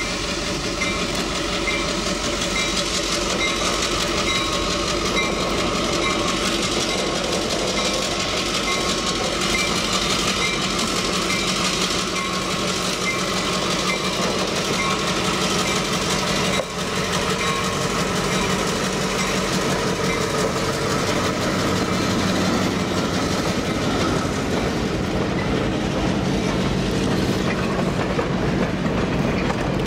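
A train passing close by: a Western Pacific F-unit diesel and a steam locomotive go past, then freight cars roll by with steady wheel-on-rail clatter.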